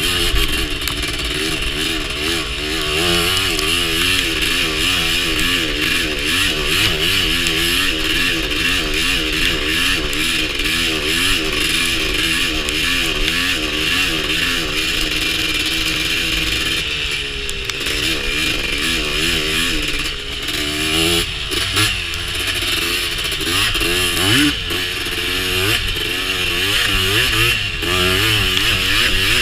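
Honda TRX250R quad's two-stroke single-cylinder engine running under throttle while the quad is ridden, its pitch rising and falling constantly. The engine note drops off briefly about two-thirds of the way through, then picks up again.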